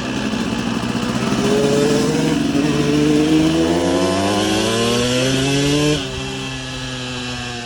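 Motocross bike engine accelerating, its pitch rising steadily for about four seconds, then dropping suddenly about six seconds in and running on at a lower, steadier pitch.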